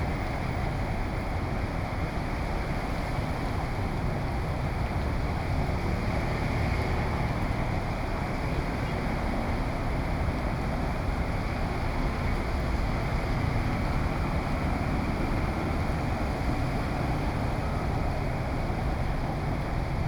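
Steady noise of heavy rain and wind buffeting the microphone, unchanging throughout.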